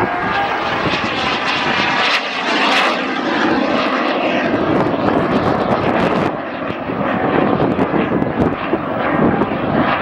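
BAC Jet Provost jet trainer flying a display, its turbojet engine loud and continuous, dipping briefly past the middle.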